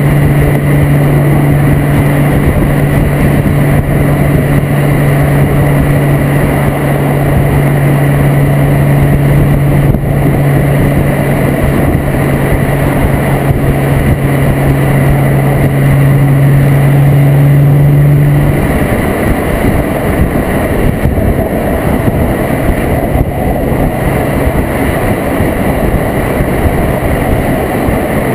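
Volkswagen Corrado's 24-valve VR6 engine through a Techtonics Tuning exhaust, driving at a steady speed with a loud, steady low exhaust drone. About two-thirds of the way through the drone drops away, leaving engine and road noise, and it comes back near the end.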